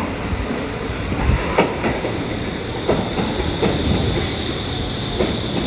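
Stockholm Metro train running on the rails with a steady rumble and a steady high whine. The wheels click sharply over rail joints several times.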